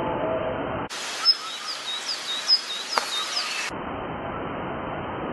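Steady outdoor background noise. From about a second in, for nearly three seconds, a bird chirps in a quick series of short high chirps, about four or five a second, with a few sharp clicks among them.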